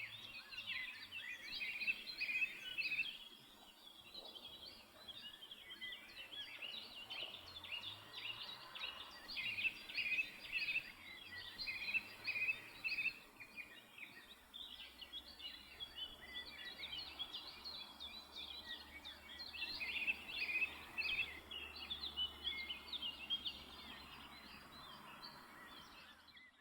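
A small bird chirping rapidly and repeatedly, in quick clusters of high chirps with a few short lulls.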